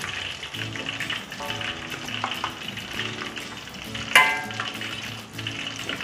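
Hot oil sizzling and crackling steadily as quail pieces deep-fry, with one sharp ringing clink about four seconds in, the loudest sound.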